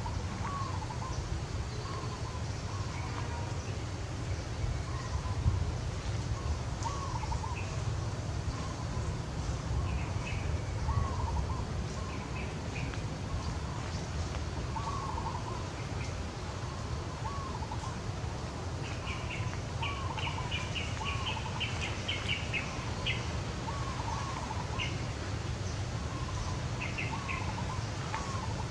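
Birds calling: one repeats a short arched call every second or two, and a flurry of higher chirps comes about two-thirds of the way through, over a steady low background rumble.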